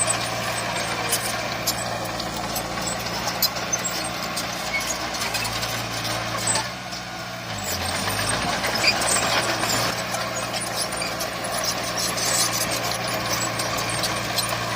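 Heavy diesel construction machinery running steadily, its engine note dipping briefly about seven seconds in and then picking up again, with scattered clicks and clatter throughout.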